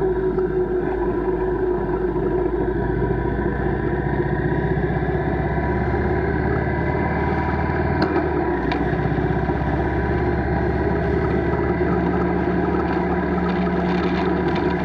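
Motorcycle engine running at a steady pace while riding, its pitch shifting slightly later on, with a couple of faint clicks about eight seconds in.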